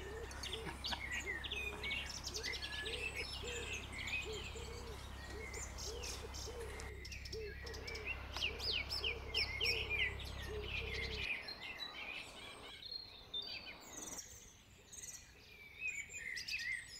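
Small birds chirping with many short, quick calls, over a low steady rumble that cuts off about eleven seconds in.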